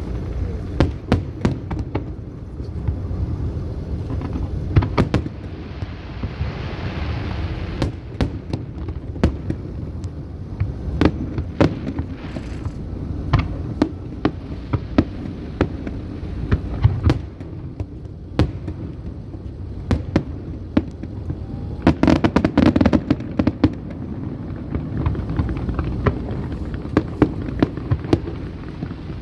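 Fireworks display: aerial shells bursting one after another in sharp bangs over a steady low rumble, with a dense, rapid cluster of bangs about 22 seconds in.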